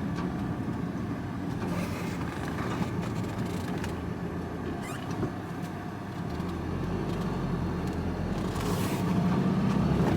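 Vehicle engine and road noise heard from inside the cab while driving, a steady low hum that grows louder in the second half.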